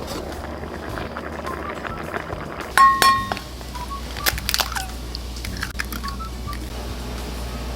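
Metal cooking utensils clinking and knocking against a pan while pork is stir-fried. About three seconds in there is one loud ringing clang, then a few sharp knocks.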